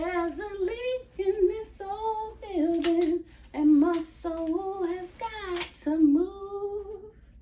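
A single high voice singing a short melody alone, without accompaniment, holding and sliding between notes.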